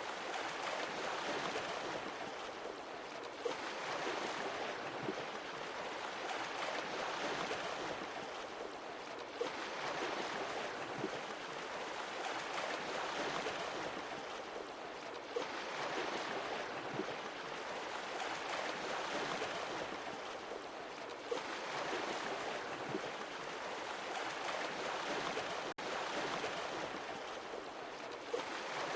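Sea waves washing onto a shore, swelling and breaking about every six seconds.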